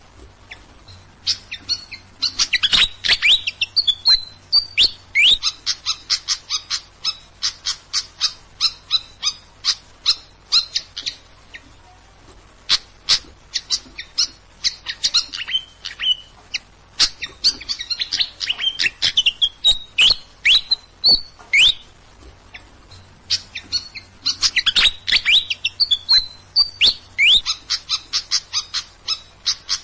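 Songbird chirping in fast runs of sharp, high notes and short trills, the same song phrase coming round about every eleven seconds: a looped masteran bird-song recording played to train a caged bird.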